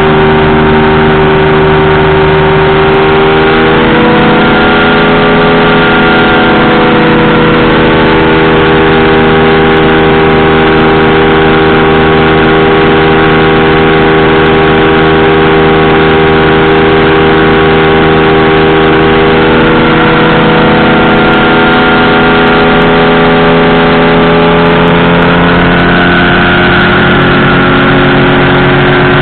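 Powered parachute's engine and propeller running loud and steady, the pitch stepping up about four seconds in, easing down around twenty seconds in, and rising again near the end.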